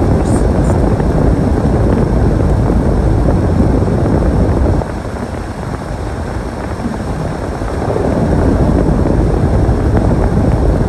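Storm wind buffeting the microphone in a loud, low rumble that eases for a couple of seconds about five seconds in, then picks up again.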